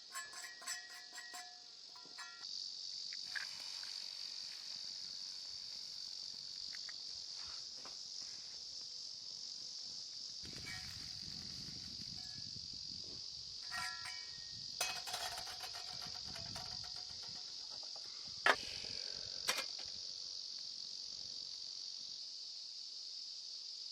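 Insects chirring in a steady, high, even drone that starts about two seconds in. A few short sharp clicks and knocks come partway through.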